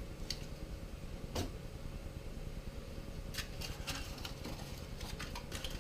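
A few light taps and rustles of packaging being handled as the RC transmitter is taken out of its box, over a steady low hum.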